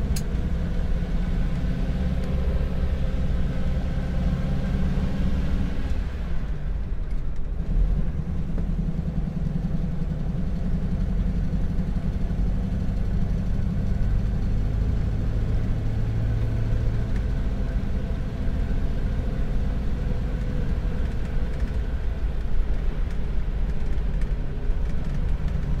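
Ford's engine running under way, with road noise, heard from inside the cab. The engine note breaks off about a quarter of the way in and comes back at a different pitch, and shifts again about two-thirds of the way through.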